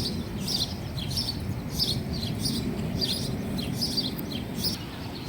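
A bird calling over and over: a short, high chirp about every two-thirds of a second, over a low steady rumble.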